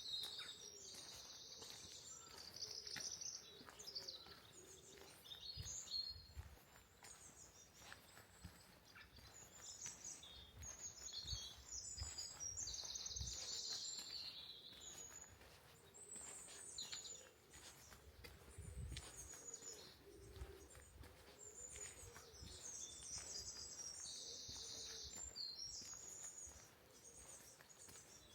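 Small songbirds singing and chirping in short phrases throughout, over a faint outdoor background, with a few soft low thumps now and then.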